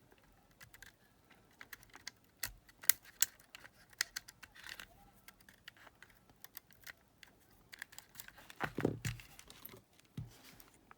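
Irregular small clicks and taps of plastic and metal parts as an Aiwa WR70 cassette player's mechanism is handled and fitted back together, with a louder knock a little before the end.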